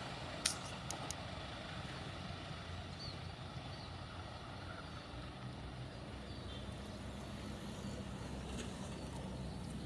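Steady low rumble of a vehicle or road traffic, with a few faint clicks about half a second to a second in.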